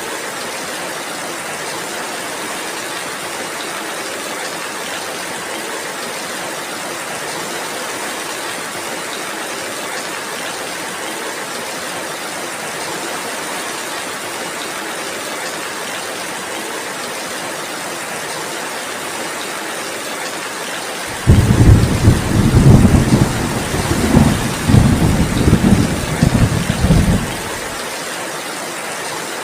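Steady heavy rain, an even hiss. About two-thirds of the way through, a low rumble of thunder comes in suddenly as the loudest sound, swells and dips several times, and stops abruptly about six seconds later.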